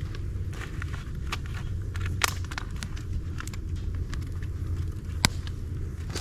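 Campfire of dry bamboo, twigs and leaves crackling in a fire pit, with irregular sharp pops, two louder ones about two and five seconds in, over a steady low rumble.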